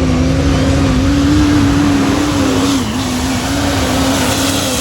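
Motor vehicle engine running at steady high revs, its pitch wavering and dipping briefly about three seconds in, with hissing bursts over the top.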